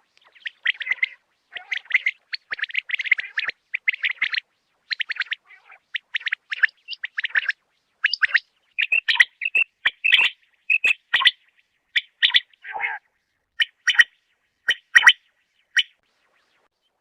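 Common quail calling: bursts of quick, high chirping notes, closely packed in the first half, then sharper single calls about once a second in the second half.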